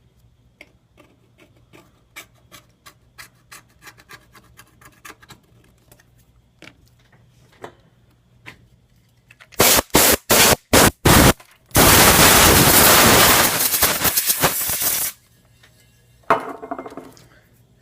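Faint scraping and ticking of a small tool picking old adhesive out of a phone frame's edge. Then come about five short, loud blasts of compressed air and a steady blast of about three seconds, blowing the loosened debris out of the ridge.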